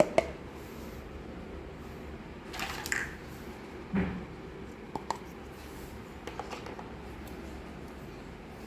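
Miniature plastic toy kitchen pieces being handled: a couple of sharp clicks at the start, a brief rustle of packaging, a soft knock about four seconds in, then a few small light taps.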